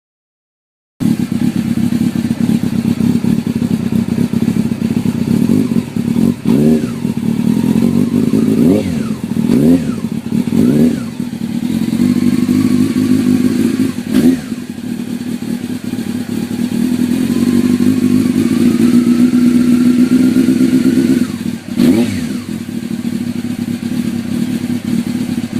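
Honda CBR600's inline-four engine running through new downpipes and a Danmoto Jisu slip-on exhaust, idling steadily with several quick throttle blips that rise and fall.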